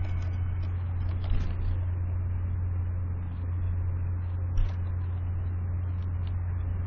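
A steady low hum, with two faint short ticks about a second and a half in and again near the five-second mark.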